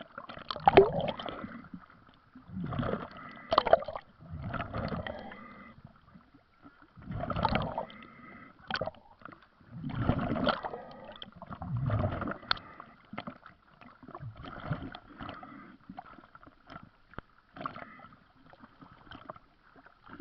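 Water gurgling and bubbling in irregular bursts about a second long, a few seconds apart, with occasional sharp clicks.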